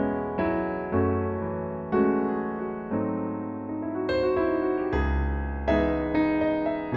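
Background music: slow piano chords struck about once a second, each ringing out and fading before the next.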